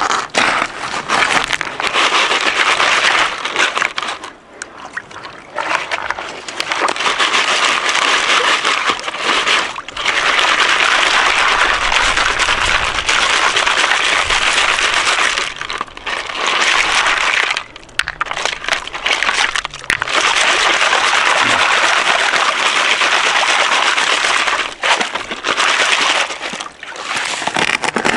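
Water splashing and sloshing in long loud stretches broken by short pauses, as dirt is washed out in a small dug pond while panning for gold.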